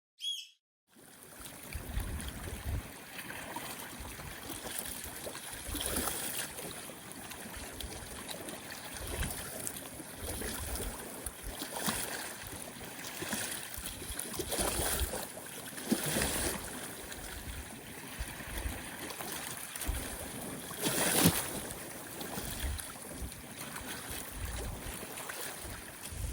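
Storm wind gusting and buffeting the microphone over rough, choppy lake water lapping at the shore, with the strongest gust about 21 seconds in.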